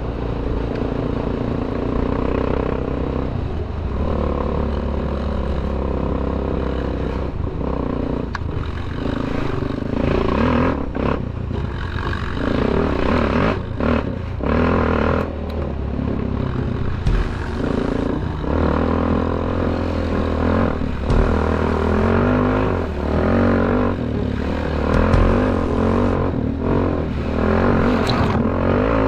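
Suzuki LT-Z400 quad's single-cylinder four-stroke engine through a Dominator MX2 aftermarket exhaust, revving up and down while riding, with frequent short throttle lifts.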